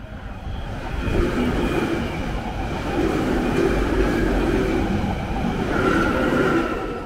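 London Underground Northern line train passing close by on the open-air tracks. It swells over the first second, stays loud with a steady high whine over the rumble of the wheels, and begins to fade near the end.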